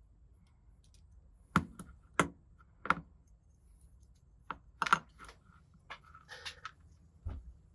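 Sharp clicks and taps of small hard parts being handled on a workbench: five distinct clicks in the first five seconds, then softer rustling and a last light tap.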